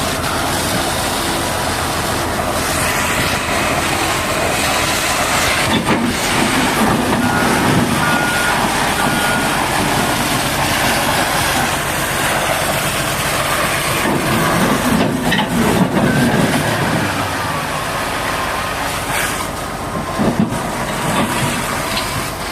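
Heavy equipment running steadily, with a few short high beeps about eight seconds in.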